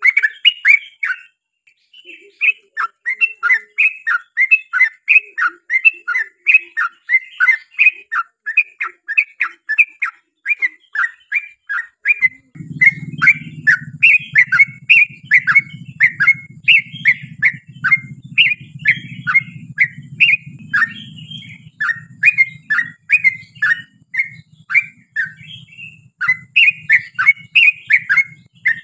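Yellow-vented bulbul singing a long, fast run of chirping notes, several a second, with a short break about a second in. From about twelve seconds in, a low steady hum runs underneath.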